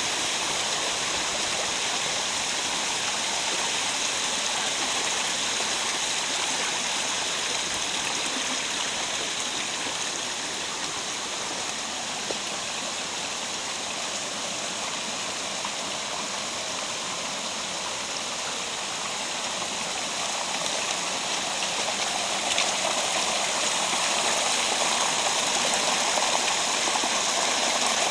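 Mountain stream in a rocky gorge rushing and splashing steadily, growing a little louder toward the end.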